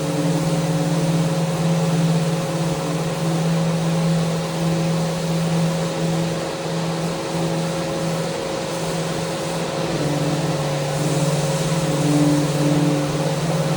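Electric power sander running steadily, a motor hum over an even hiss of abrasive on wood, the pitch shifting slightly about ten seconds in.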